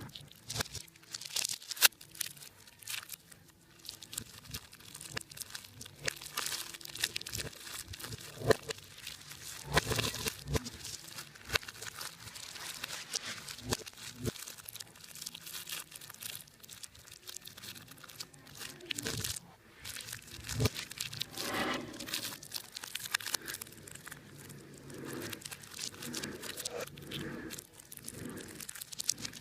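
Irregular crinkling, crunching and tearing of material worked by hands, a dense run of small crackles and clicks.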